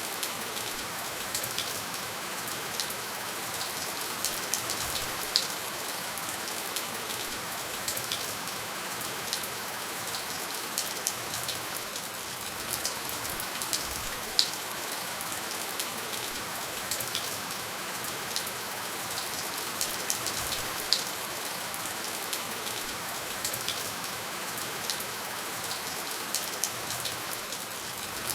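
Steady rainfall: an even hiss of rain with many separate drops ticking sharply on a surface, scattered irregularly throughout, and no thunder.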